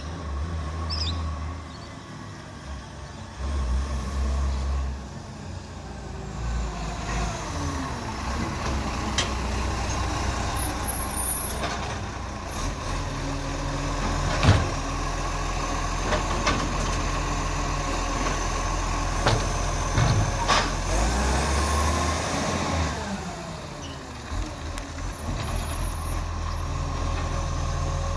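International ACCO garbage truck working. Its engine rumbles and revs up about eight seconds in, a steady whine holds until the revs drop near the end, and there are two sharp bangs in the middle.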